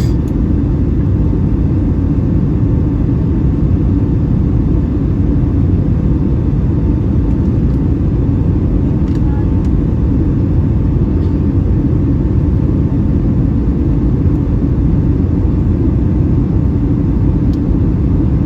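Steady roar of engines and airflow heard inside the passenger cabin of a Boeing 757-300, with a faint steady hum above it and a few light clicks.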